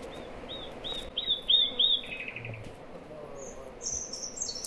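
A small songbird singing a run of about six quick repeated high notes that grow louder, ending in a short buzzy trill about two seconds in. Higher, thinner chirps follow near the end.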